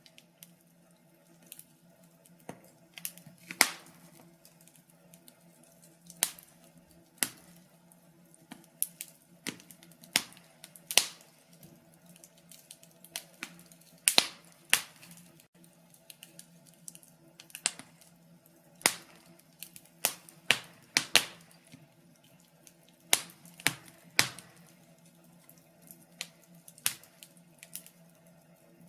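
Wood fire crackling in a fireplace, with irregular sharp pops and snaps of burning logs, some clustered and some a second or more apart.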